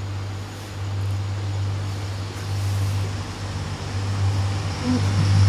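Low, steady rumble of an approaching train, growing louder, with a higher hiss coming in near the end.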